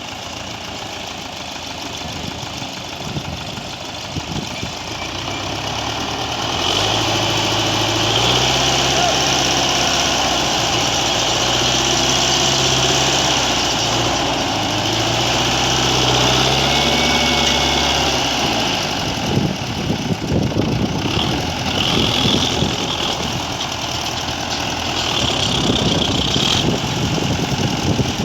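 A heavy vehicle's diesel engine running, quiet and idling at first, then louder from about seven seconds in, its note rising and falling in steps as it works.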